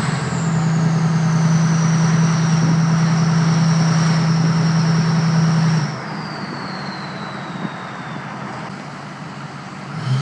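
Straight-piped Ford 6.0 Power Stroke V8 turbo-diesel on the throttle, with its Powermaxx stage 2 turbo whistling high over the engine. About six seconds in, the throttle lifts: the engine note drops away and the whistle glides down as the turbo spools down. Near the end the throttle comes back on and the engine note returns.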